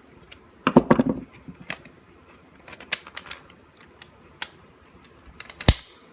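Sharp plastic clicks and snaps of the retaining clips on a BMW Z4 (E85) instrument cluster housing being pried open. There is a quick run of clicks about a second in and the loudest snap near the end.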